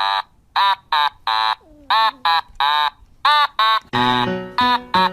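A kitten meowing over and over in short, high, rising-and-falling cries, about two or three a second. Background music with steady notes comes in about four seconds in, under the continuing meows.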